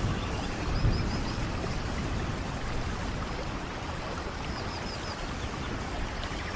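Steady heavy rain falling in a rainforest, with a brief low rumble about a second in. Twice, a short run of three or four high chirps sounds over the rain.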